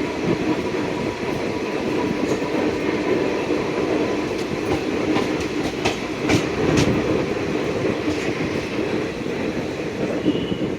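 A passenger train running along the track, with a steady rumble of wheels on rails and a few sharp clicks over rail joints around the middle.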